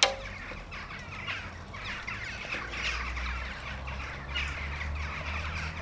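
Birds calling: short, repeated falling chirps and calls, with one sharp click at the very start.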